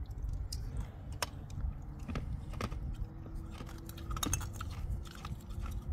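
Chewing and crunching a hard, decades-old pressed-sugar candy tablet, with a few sharp clicks scattered through.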